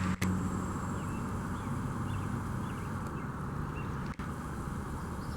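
Steady outdoor background of low traffic rumble from a nearby road, with faint, scattered bird chirps; the sound cuts out for an instant twice.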